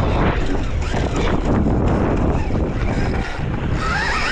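Dirt bike being ridden, with heavy wind rumble on the microphone. About four seconds in, a motor whine starts, wavering up and down in pitch.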